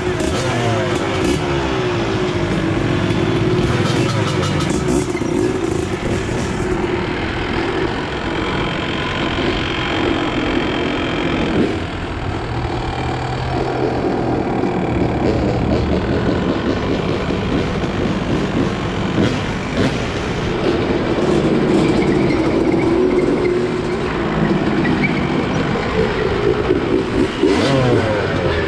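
Several motorcycle and dirt-bike engines running together, revving now and then, their pitches rising and falling over one another, with rev glides just after the start and again near the end.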